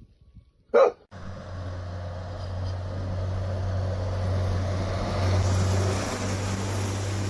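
A short, loud sound just under a second in, then a steady motor-vehicle engine drone with a low hum under a broad hiss, growing slightly louder.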